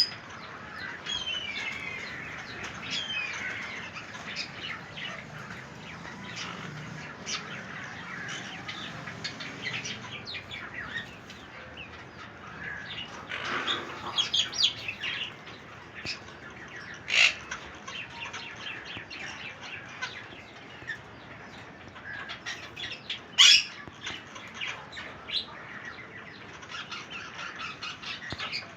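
Parrots chirping and chattering continuously, with many short calls and two louder, sharp squawks later on.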